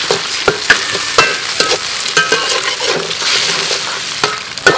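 Food frying and sizzling in a hot pan while it is stirred with a metal spatula, which clinks and scrapes against the pan about twice a second.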